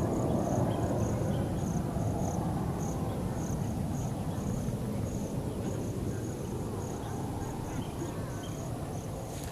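Insects calling: a run of short, high chirps about two to three a second, with a steady thin whine above them, over a low background rumble that slowly fades.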